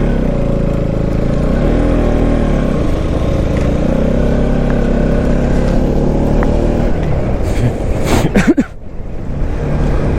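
Motorcycle engine running steadily while riding, its pitch dipping and rising again about two seconds in. A brief loud rush of noise comes about eight seconds in.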